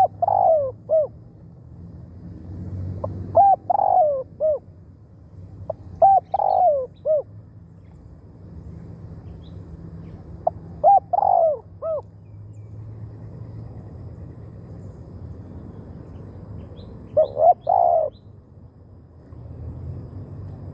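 Spotted dove cooing: five short phrases of a few coos each, spaced a few seconds apart.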